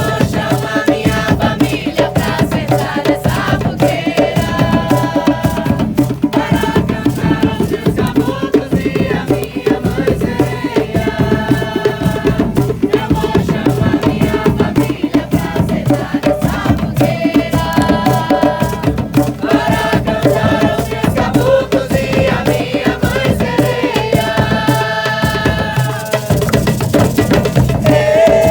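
Live acoustic music: a fast, dense beat of hand drums and rattles under a melodic line that moves in held phrases of a few seconds each.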